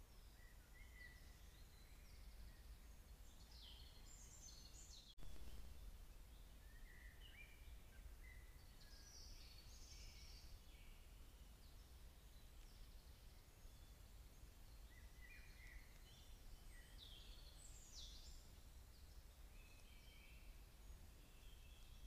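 Faint woodland birdsong: scattered short chirping calls from small birds, over a steady low background rumble. The sound drops out for an instant about five seconds in.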